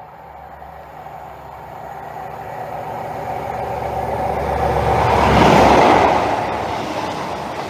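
Network Rail HST led by a Class 43 diesel power car approaching and passing at speed: a steady engine hum that grows louder and peaks a little past halfway as the power car goes by, then the train's running noise carries on.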